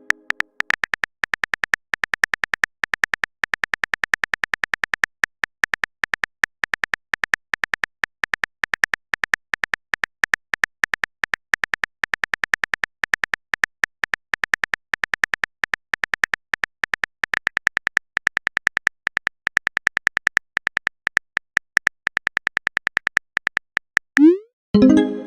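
A rapid, even run of clicks from a phone keyboard typing sound effect, broken by a few short pauses. Near the end comes a short pitched chat-message sound.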